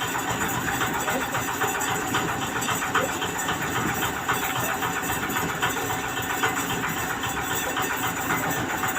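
A septic siphoning truck's engine running steadily at idle, with a fast, even pulse.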